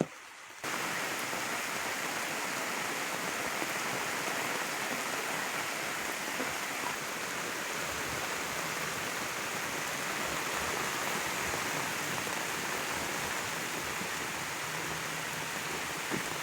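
Heavy rain falling in a steady, even downpour. It sets in abruptly about half a second in.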